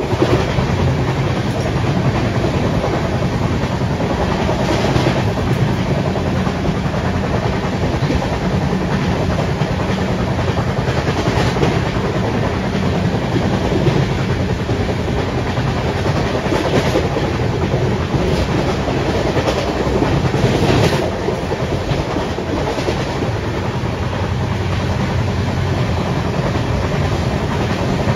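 Indian Railways passenger train running at speed, heard from the carriage: a steady rumble of wheels on the rails, with a few sharper clatters spread through, the loudest about three-quarters of the way in.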